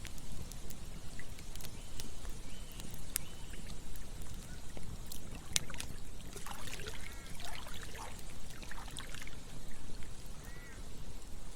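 Campfire crackling with scattered sharp pops over a low, steady rush of flowing water. About six seconds in, a flurry of short chirping animal calls runs for about three seconds.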